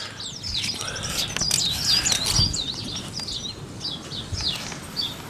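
Small songbirds chirping and singing, a dense run of quick rising and falling notes.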